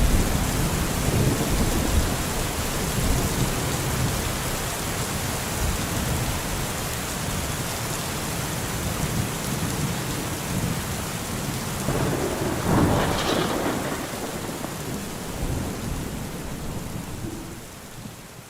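Steady heavy rain with low rumbling thunder, and a louder peal of thunder about twelve seconds in. The storm sound fades out near the end.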